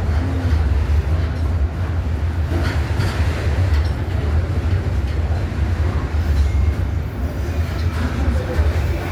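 Container freight train rolling past at close range, a steady loud low rumble of wheels on rail with faint irregular clicks.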